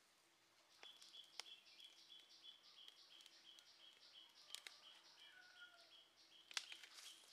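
A bird chirping rhythmically, about four high chirps a second, starting about a second in. The small wood fire under the stone slab crackles with a few sharp pops.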